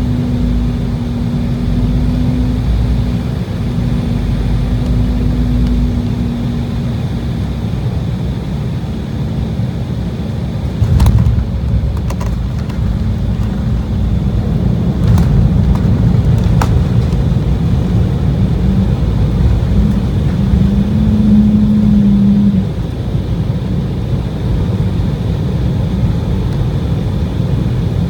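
Cabin noise of an Embraer E190 airliner during its landing: a steady drone from its CF34 turbofans over a low rumble. Several sharp knocks come about a third of the way in, and the engine noise rises for a few seconds past the middle, then cuts back suddenly.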